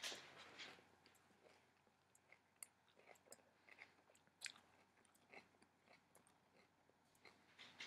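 A person chewing a mouthful of kale salad: faint, irregular crunches and wet mouth clicks, a little louder right at the start.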